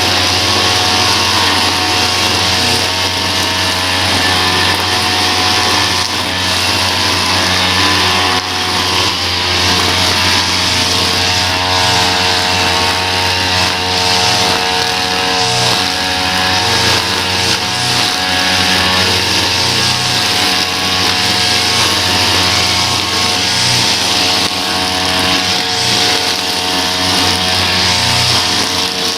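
Small petrol engine of lawn-care equipment running steadily at one even speed, with a strong hiss above the engine note.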